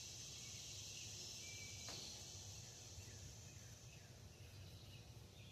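Near silence: a faint, steady high hiss over a low hum, with one faint click about two seconds in.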